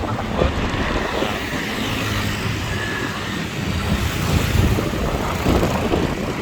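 Motorbike riding along a road: steady engine and road noise under wind buffeting the microphone.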